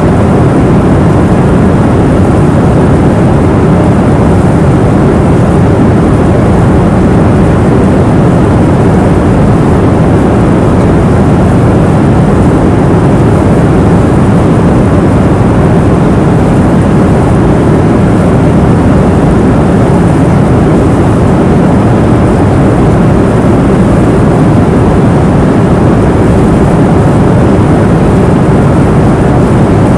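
Airliner cabin noise in cruise flight: a steady deep rumble and rush of engine and airflow noise, mostly low and unchanging.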